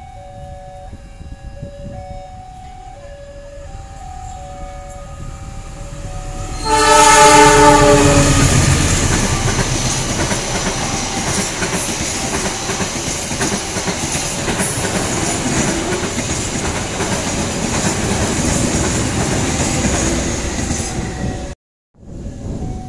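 An alternating two-note electronic warning tone sounds. About seven seconds in, a CC206 diesel-electric locomotive blows its horn once, and a passenger train runs past close by, its wheels and coaches making a loud steady rush. The rush stops abruptly near the end.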